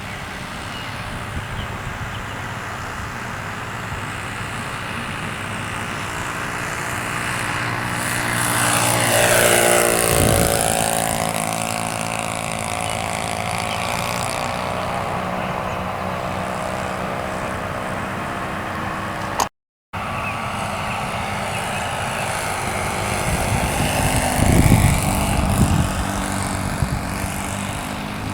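Model airplane's Saito .82 four-stroke glow engine running in flight. Its pitch falls as it passes close, about a third of the way in. The sound cuts out for a moment past halfway, and a second loud pass comes near the end.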